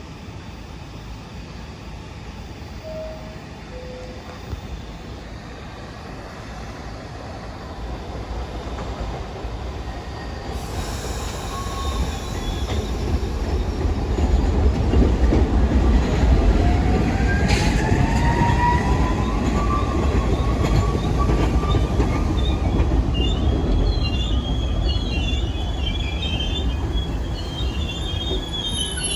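New York City subway train approaching and running through the station, its rumble growing louder over the first half. A rising whine comes about halfway in, and high-pitched wheel and brake squeal follows near the end.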